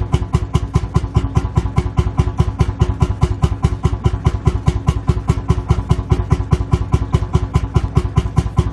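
Lanz Bulldog tractor's single-cylinder two-stroke hot-bulb engine idling, its slow, even thump at about five to six beats a second.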